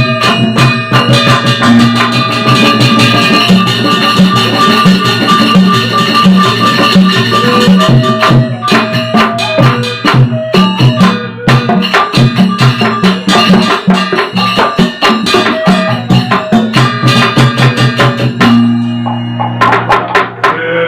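Sasak wayang gamelan ensemble playing a gending: drums and struck pitched percussion in a busy, steady rhythm over held melodic tones. Near the end the beating breaks off, leaving a low ringing tone.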